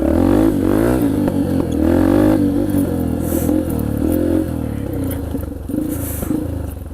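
Yamaha TT-R125LE dirt bike's single-cylinder four-stroke engine running under throttle, its pitch rising and falling with revs over the first couple of seconds, then settling to a steadier note.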